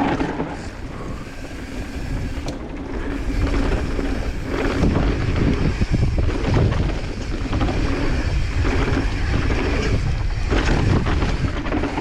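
Wind buffeting the microphone over the rumble and rattle of a mountain bike riding fast down a rough dirt trail, with sharp knocks as it hits bumps.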